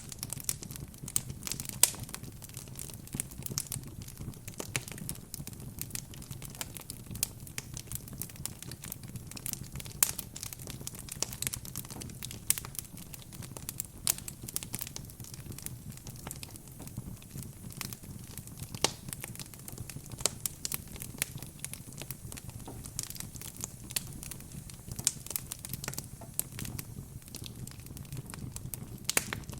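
Wood fire crackling in a fireplace: a steady low rumble of the flames with dense, irregular pops and snaps from the burning logs, a few of them sharper and louder.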